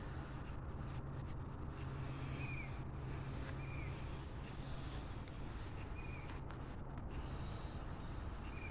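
Quiet outdoor ambience: a steady low hum, strongest in the first few seconds, under a bird's short, high, falling call repeated every second or two.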